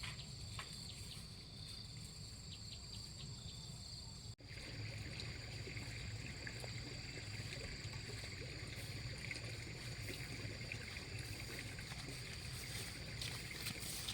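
Faint outdoor ambience: a steady high insect drone over a low rumble. The sound cuts out for an instant about four seconds in, and after that a slightly brighter drone runs on.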